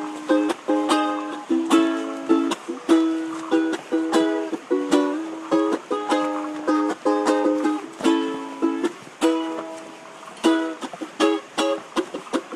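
Background music led by a strummed ukulele, in quick plucked chords.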